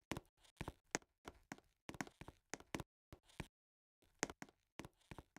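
An irregular run of sharp taps or knocks, roughly two a second, stopping for about half a second partway through.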